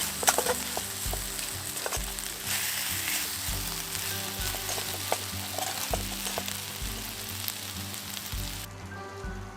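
Food sizzling and frying in a pan, with a few light clicks of a utensil against it early on; the sizzle cuts off sharply near the end.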